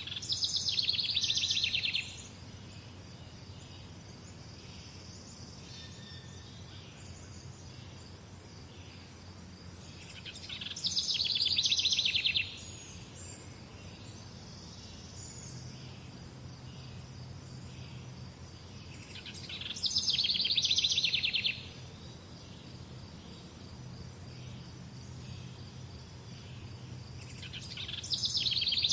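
A songbird repeatedly singing the same loud, rapid trilled phrase of about two seconds, four times at roughly nine-second intervals, over a faint steady high hiss and a low background hum.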